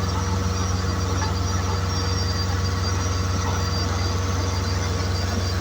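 Heavy construction machine engine running steadily with a deep, even hum.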